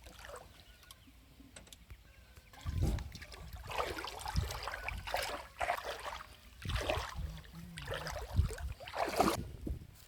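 Water splashing and sloshing in irregular surges, with a few low rumbles among them.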